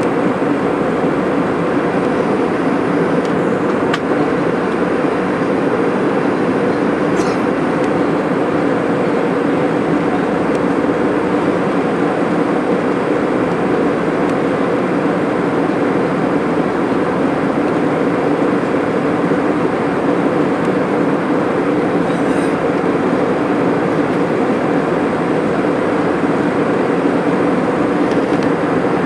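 Airliner cabin noise in flight: the steady drone of jet engines and rushing air heard from inside the passenger cabin, with a constant low hum.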